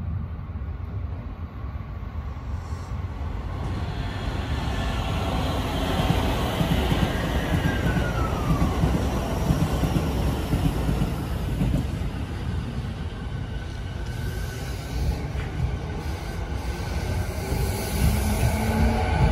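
Electric commuter trains at a station platform. A second train runs past on the adjacent track with rail noise and a falling tone around the middle. Near the end there is a steady motor whine that rises slightly in pitch.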